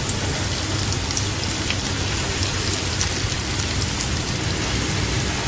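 Flour-coated chicken drumsticks deep-frying in hot oil: a steady sizzle with scattered small crackles.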